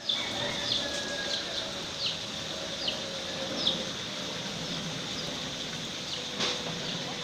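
A bird chirping over and over, short high falling chirps about once or twice a second, over a thin steady high whine and an outdoor background hiss. A single sharp click comes about six seconds in.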